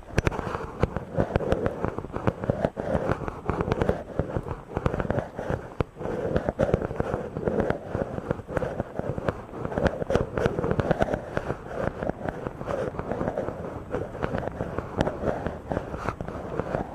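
Close-up rubbing directly on a microphone, a dense, continuous crackling scratch that swells and eases irregularly.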